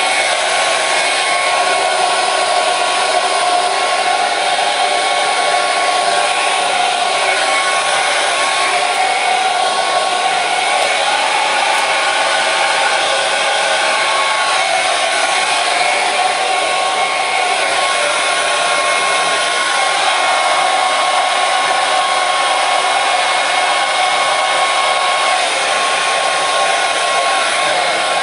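Hair dryer running continuously: a steady, unchanging rush of blown air with a thin, steady motor whine over it.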